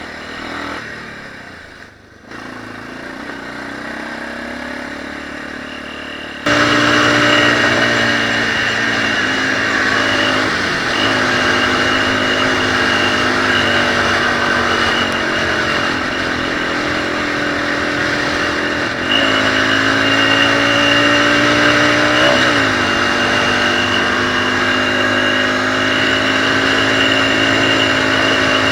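Off-road motorcycle engine running under way, its pitch rising and falling as the revs change. It gets suddenly louder about six and a half seconds in.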